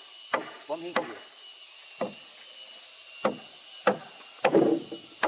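Wood being chopped with a hand tool: about seven sharp blows at uneven spacing, roughly one a second, with a longer clattering burst near the end.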